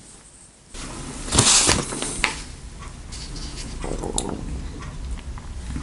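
Handling noise: rustling with a few sharp clicks as a paper card and a furry hand puppet are moved about. The loudest rustle comes about a second and a half in.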